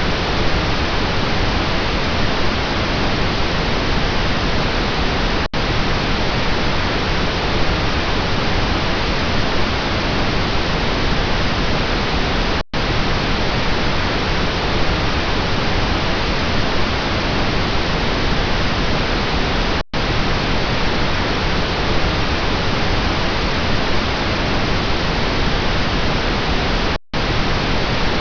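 Steady pink noise, an even hiss with no pitch, cut by a brief silent dropout about every seven seconds, four times in all.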